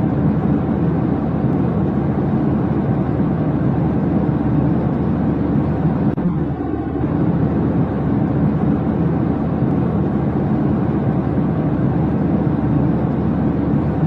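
Steady jet airliner cabin noise, a low even rumble. The same stretch repeats about every eight seconds, as a looped background track.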